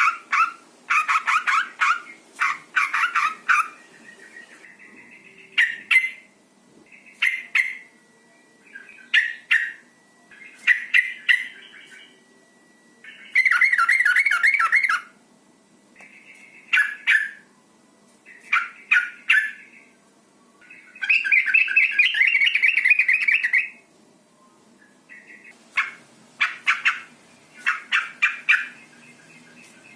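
Female yellow-vented bulbul (trucukan) calling in short bursts of quick, bubbly chattering notes every second or two, with two longer runs of chatter. These are the breeding-condition calls of a female that draw a male to answer.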